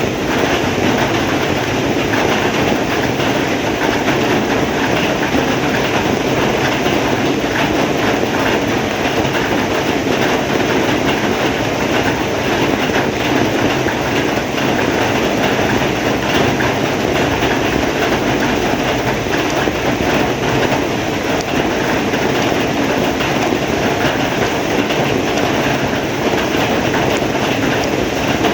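Heavy rain falling steadily: a dense, even hiss of drops that does not change.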